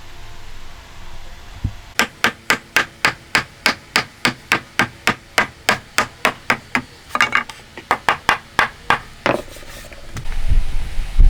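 Rapid, even hammer blows in hand woodworking, about four strikes a second for several seconds, then a few slower, irregular blows. A low rumble starts near the end.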